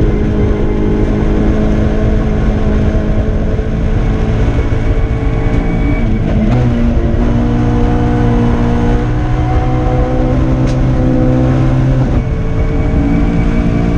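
Nissan Micra kit car's engine running hard under load, heard from inside the cabin. The engine note holds steady pitches that jump abruptly to new ones about six seconds in and again near the end.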